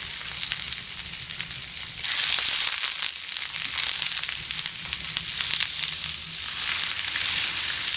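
Char (iwana) frying in oil on an iron griddle plate: a steady sizzle with fine crackles, growing louder about two seconds in.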